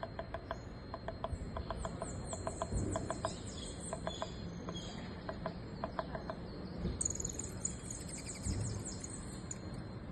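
Wild birds calling: runs of high, fast trilled chirps twice, over a string of short sharp clicking notes that come in irregular pairs, with a low background rumble.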